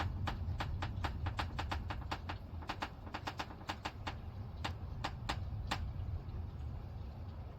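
Irregular sharp ticks of storm drops striking a hard surface close by, several a second, stopping about two-thirds of the way in, over a steady low rumble.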